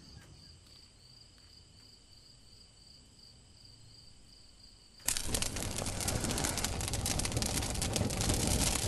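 Faint night insects chirp steadily with a quick pulsing trill. About five seconds in, a loud crackling rush of burning fire starts suddenly and keeps going.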